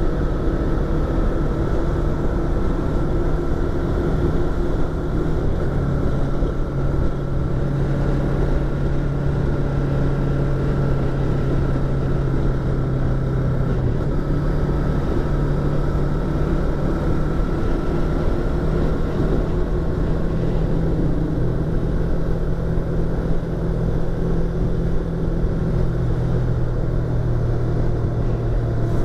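Yamaha YZF-R25's parallel-twin engine and exhaust running at a steady cruise, heard from inside the rider's helmet with wind noise. The engine note holds fairly even, with small shifts in pitch a few times.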